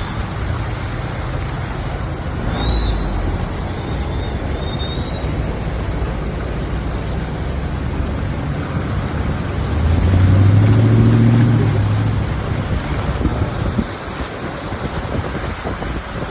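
Heavy rain pouring steadily, a constant hiss of water. About two-thirds of the way through, a vehicle's engine hum swells and fades as it passes, the loudest moment.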